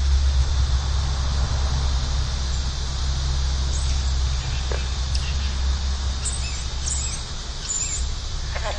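Outdoor ambience: a steady low rumble under a hiss, with a few short, high bird chirps in the second half.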